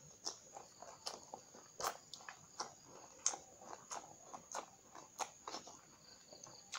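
Chewing raw round green eggplant: crisp crunches and wet mouth clicks, a few each second, at an uneven pace.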